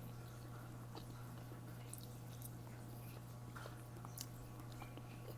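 Close-up chewing and small mouth clicks of someone eating spicy ramen, scattered and soft, over a steady low hum.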